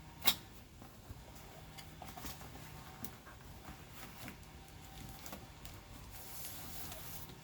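Package being worked open by hand: scattered small clicks, taps and scrapes, with one sharp click just after the start and a brief rustle of packaging near the end.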